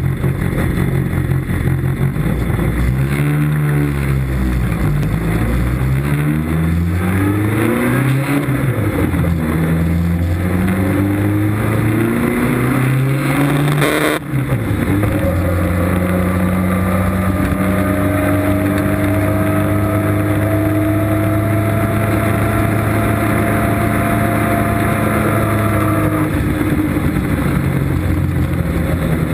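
Open-cockpit sports car's engine heard from the driver's seat, pulling up and down through the revs. There is a brief drop about halfway at a gear change, then it cruises steadily before easing off near the end. Wind and road noise rush past the open cockpit throughout.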